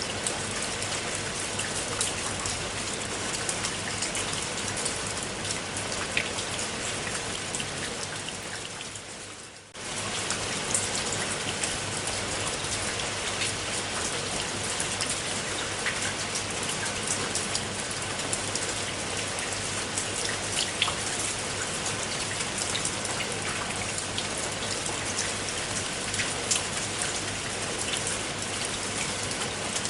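Steady rain falling, a dense hiss with many separate drop hits. About eight seconds in it fades away and then comes straight back in abruptly.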